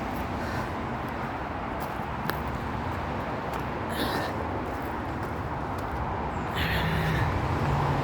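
Steady rumble of motorway traffic with a few footsteps on the path. The traffic gets a little louder and a low hum comes in near the end, as a vehicle draws closer.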